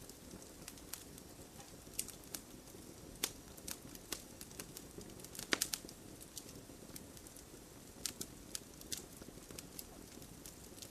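Wood campfire crackling: irregular sharp pops and snaps over a low, steady hiss of burning, with one louder pop about halfway through.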